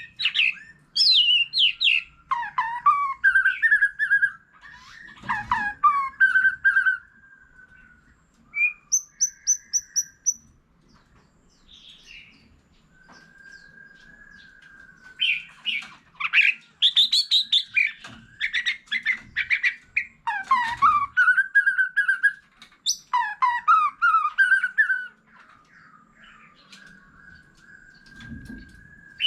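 White-rumped shama singing loud, varied whistled phrases in bursts, with a quieter gap in the middle holding a long steady whistled note.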